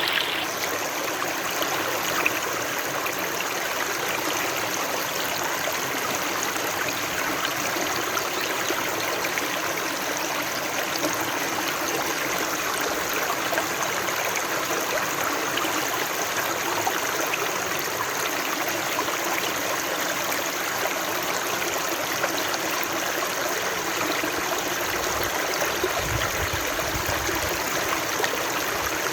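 Water flowing steadily, an even, unbroken splashing hiss, with a short low rumble a few seconds before the end.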